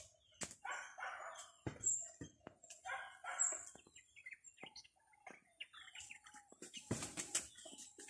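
Birds calling: short high chirps, and two pairs of coarser, louder calls about one and three seconds in. There are scattered clicks and a louder rustle or knock near the end.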